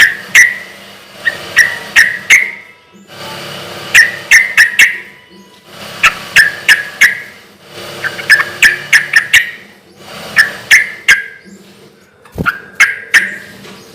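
Yellow-vented bulbul singing loudly: short bubbly phrases of three to five quick notes, one phrase about every two seconds.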